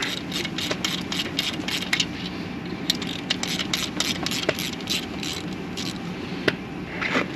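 Ratchet wrench clicking in quick, uneven strokes, about three or four clicks a second, as fasteners are backed out.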